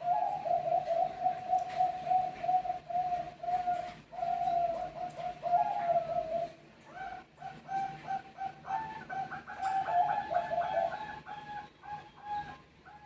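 Zebra doves (Bangkok perkutut) cooing in rapid runs of short repeated notes, with at least two birds calling over one another.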